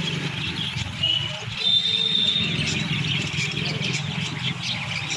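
A flock of small birds chirping and chattering without pause, with a few short held whistles, over a steady low hum.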